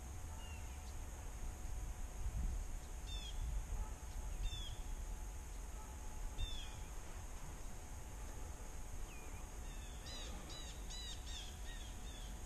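A bird calling in short, downward-sliding chirps: a few single calls spaced a second or two apart, then about four in quick succession near the end, over a low rumble.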